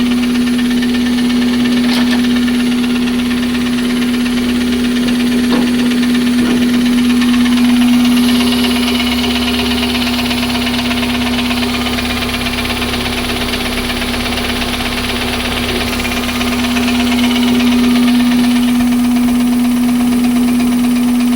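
Toyota 7A-FE 1.8-litre four-cylinder engine running steadily with a knocking noise and loud aftermarket-intake noise. The knock is of unknown cause: rod bearings, valve clearances, timing set and oil pressure have all checked out.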